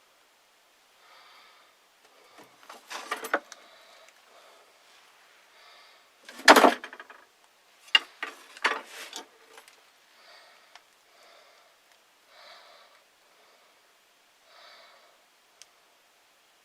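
Handling noise from a small wire trap trigger: scattered metallic clicks and rattles, with one loudest knock about six and a half seconds in.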